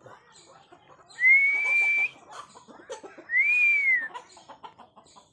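Two long, clear whistled notes, the first held fairly level and the second rising and falling, over faint clucking and pecking from fowl.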